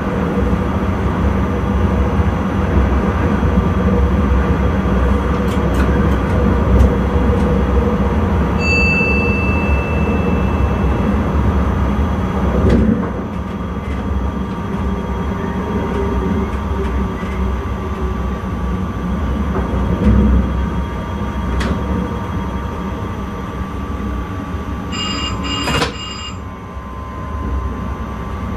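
Intercity train running, heard from the driver's cab: a steady rumble and hum from the running gear. A short high electronic beep sounds about a third of the way in, and a brief higher chiming tone with a click comes near the end.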